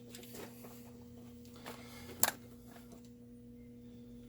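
A few light clicks of chainsaw parts being handled on a workbench, one sharper click about two seconds in, over a steady low hum.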